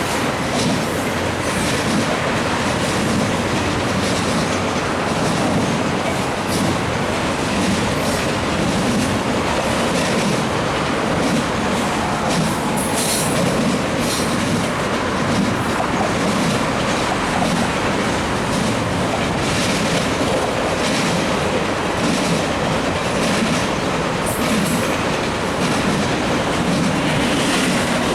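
CN intermodal stack train's cars rolling past: a steady, loud rumble of steel wheels on the rails, broken by repeated clicks as the wheels cross rail joints.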